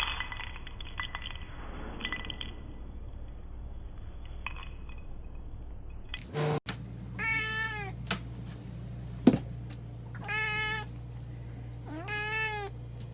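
A cat meowing three times, each meow about half a second long, starting about seven seconds in. A single sharp knock comes between the first and second meows.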